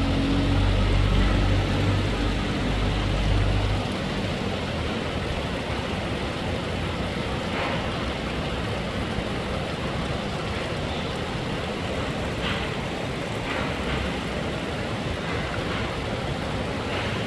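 Steady rain, an even hiss, with a deep low rumble through the first four seconds that then stops.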